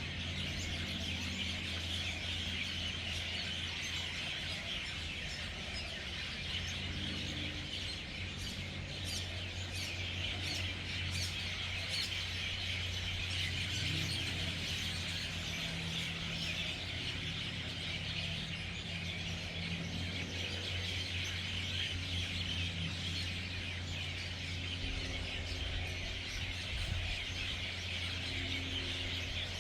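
A large flock of hundreds of birds chattering continuously as they gather at an evening roost, a dense wall of overlapping chirps and calls.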